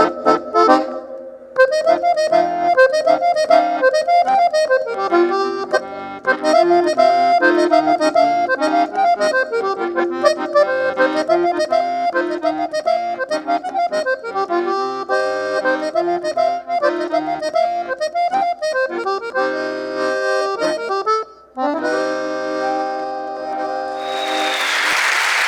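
Accordion (sanfona) playing a fast instrumental melody, breaking off briefly and then holding a sustained closing chord. Applause breaks out near the end.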